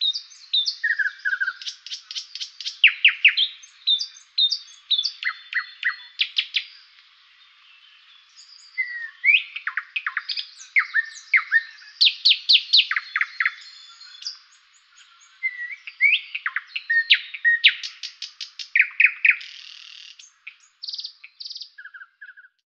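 Songbirds chirping and singing: quick runs of short, sharp chirps and fast trills with brief gaps, growing sparser near the end.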